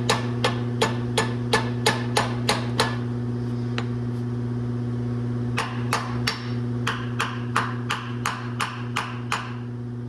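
Hammer tapping a small flathead screwdriver, about three quick metal strikes a second, to work loose a carburetor that has probably never been off its engine. The tapping pauses for a couple of seconds partway through, then resumes. A steady hum runs underneath.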